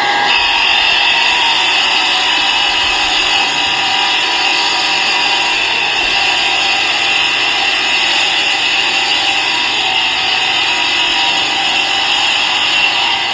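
A workshop machine running steadily with a high whine over its noise.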